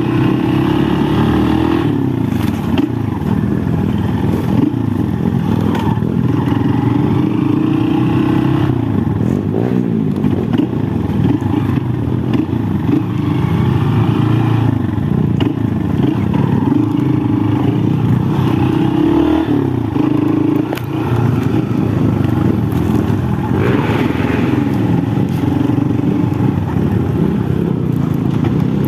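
Honda XR190 enduro motorcycle's single-cylinder four-stroke engine running, revving up and falling back again and again as it is ridden.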